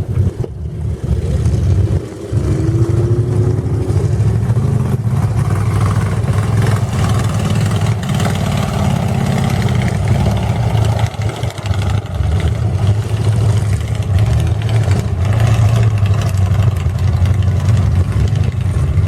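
Mud truck engine running loudly under throttle, a heavy drone whose level rises and falls, with a short dip about two seconds in.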